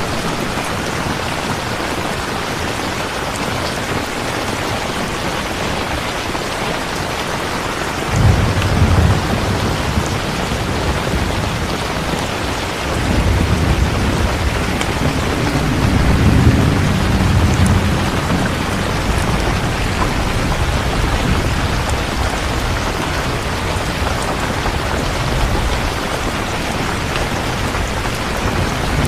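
Steady rain falling, with thunder rumbling low beneath it: a sudden roll about eight seconds in and a longer, louder one a few seconds later.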